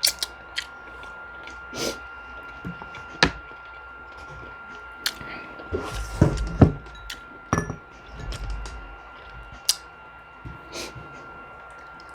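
Close-up eating sounds of chicken curry and rice being chewed: wet mouth and chewing noises with scattered sharp clicks and knocks, busiest a little past the middle. A faint steady high hum sits underneath.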